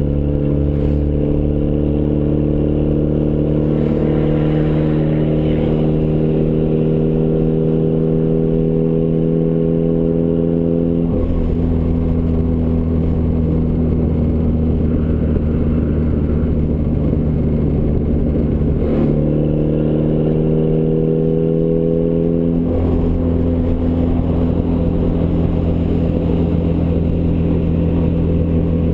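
Turbocharged Ford Escort ZX2 four-cylinder running through a custom 3-inch side-exit exhaust: a steady, loud drone whose pitch slowly climbs, then drops suddenly about a third of the way in, climbs again and drops once more later on.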